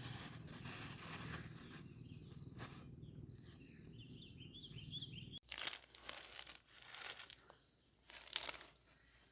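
Faint outdoor background with a short run of quick bird chirps about four seconds in. After an abrupt break, a series of irregular rustling, crunching strokes follows, like something being handled or torn.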